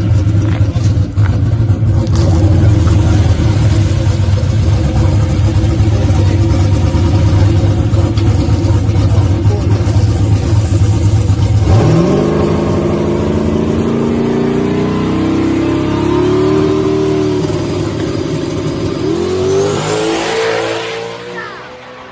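Drag car's engine held at steady high revs for about twelve seconds, then accelerating down the strip, its pitch climbing in steps through the gears before it fades away.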